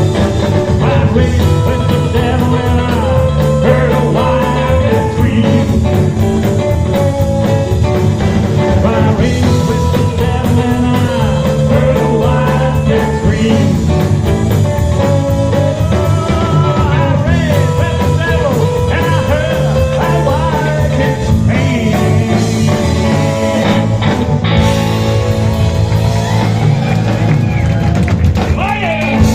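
Rock and roll band music with electric guitar and a steady beat.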